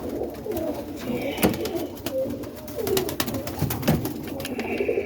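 Roller pigeons cooing in the loft, with scattered sharp clicks and knocks throughout.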